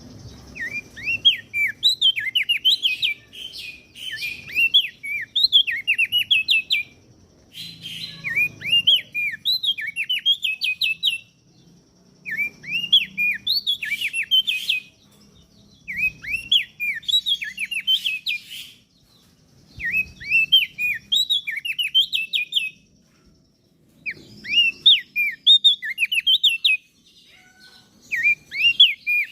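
Crested white-eye (opior jambul) singing: phrases of quick, rising chirping notes, each phrase two to three seconds long, repeated with short pauses.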